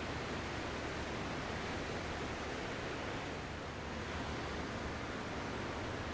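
Ocean surf washing steadily, an even hiss of breaking waves that eases slightly a little past the middle.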